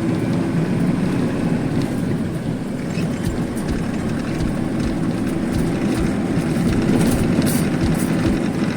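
Truck engine running and road noise heard from inside the cab while driving, a steady rumble.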